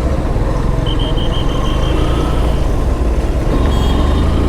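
Motorcycle engine running amid road traffic, a steady low hum with road noise. A quick string of about six short high beeps sounds about a second in.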